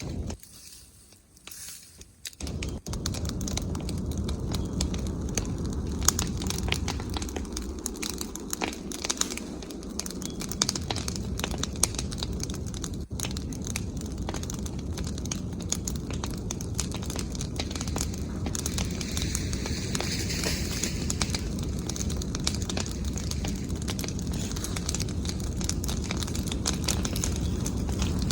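Bonfire of branches and leaves burning, with dense sharp crackles over a steady rush of flame. It gets suddenly louder about two and a half seconds in.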